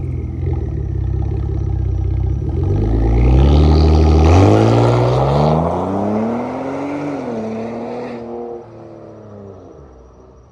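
Twin-turbo 3.5-litre EcoBoost V6 of a 2013 Ford Taurus SHO running through a straight-piped exhaust (mufflers and resonator deleted, stock downpipes), accelerating away. The exhaust note climbs in pitch and loudness for a few seconds, drops at an upshift about seven seconds in, and fades as the car pulls off.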